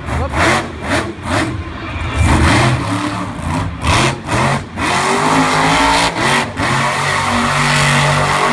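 Monster truck engine revving hard in quick repeated throttle blips. From about five seconds in, it is held at steadier high revs.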